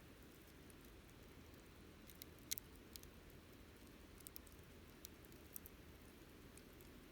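Wood campfire crackling faintly: scattered small snaps and pops, with one sharper pop about two and a half seconds in, over a low steady hiss.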